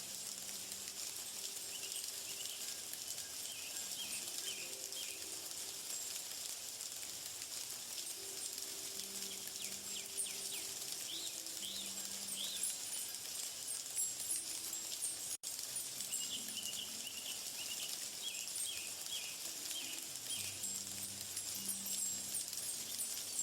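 Outdoor nature ambience: a steady high insect chorus with birds chirping in scattered clusters, and faint low hums that come and go. A split-second gap in the sound falls about fifteen seconds in.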